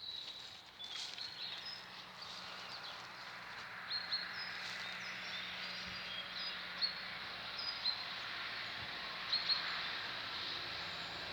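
Pine-forest ambience: a steady high hiss with scattered short bird chirps every second or so.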